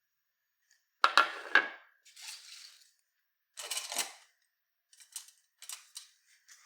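Several light clinks and clatters of small hard objects being handled and set down, in irregular clusters.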